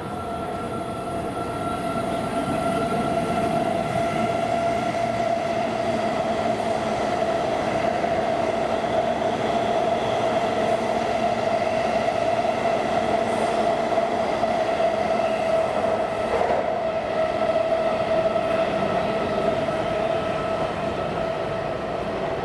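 A 185-series electric train approaching along the track: a steady ringing tone over a rumble, growing louder over the first few seconds and then holding steady.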